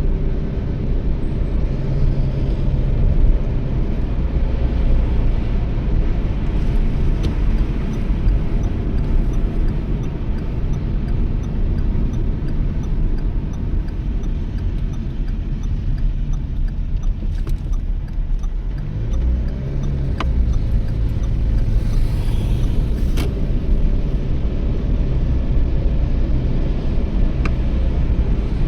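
Toyota Yaris driving at road speed, heard from inside the car: a steady low engine and road rumble. About two-thirds of the way through, the engine note drops briefly and then climbs again.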